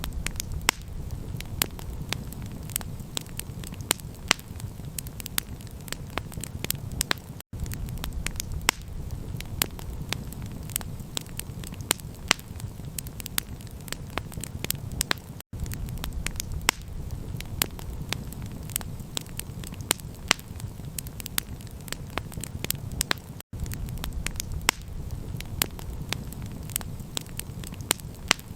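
Campfire crackling: frequent sharp pops and snaps over a steady low rumble. The sound cuts out for an instant about every eight seconds, as at the seam of a looped recording.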